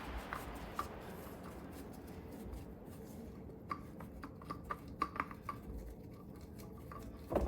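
Faint clicks and light knocks of hands handling a new screw-on oil filter as it is offered up and tried on its threaded mount. There is a cluster of small clicks in the middle and a louder knock near the end.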